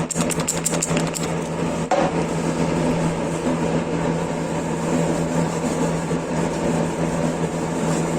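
A power tool's electric motor running steadily, with a rapid run of ticks or rattling in about the first second.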